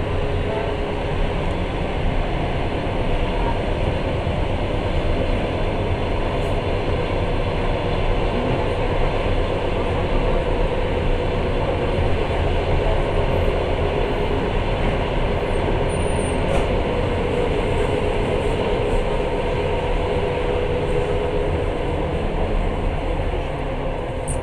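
Passenger train running steadily, heard from inside the carriage: an even running noise of wheels on rail, with a faint steady hum.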